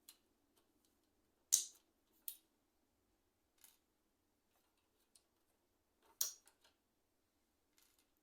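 Short, sharp clicks and snaps of keyboard parts being handled and taken apart. Two louder snaps come about a second and a half in and about six seconds in, with lighter clicks between.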